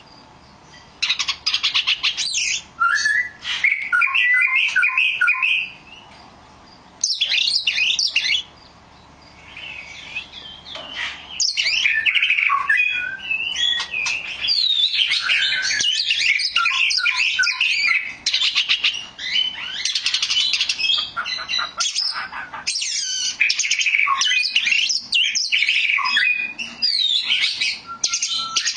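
Oriental magpie-robin (kacer) singing a varied song of whistles, chirps and rapid trills. It comes in short phrases with pauses for the first ten seconds or so, then runs on almost without a break.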